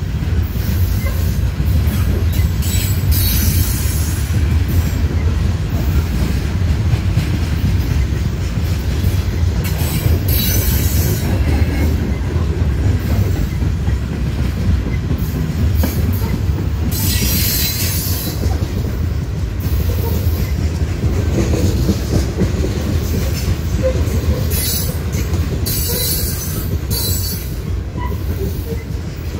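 Loaded Norfolk Southern coal train's hopper cars rolling past on the rails: a steady heavy rumble of steel wheels on track, with high-pitched wheel squeal rising and fading about four times.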